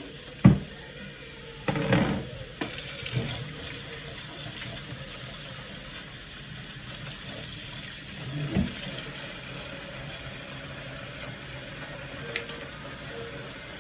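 Kitchen tap running into a sink as something is rinsed, with a few sharp knocks and clatters against the sink in the first few seconds and one more about eight seconds in.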